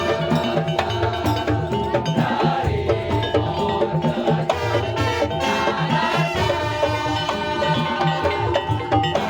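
Madurese daul (tong-tong) percussion ensemble playing a fast, steady rhythm: low drum strokes and wooden knocks under ringing pitched tones.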